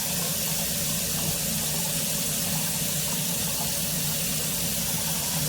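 Bathroom sink tap running steadily, water pouring into the basin and down the drain while the water pressure and drainage are checked.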